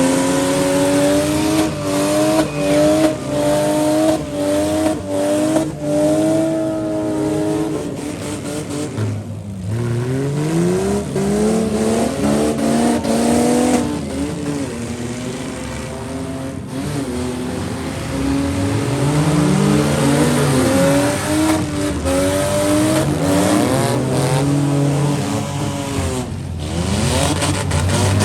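Demolition derby vans, trucks and SUVs with engines revving hard, rising and falling again and again, with scattered knocks from cars hitting each other.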